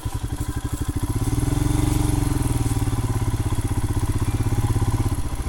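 Royal Enfield Himalayan's single-cylinder engine pulling under load up a slippery trail climb. It grows louder about a second in and eases off near the end.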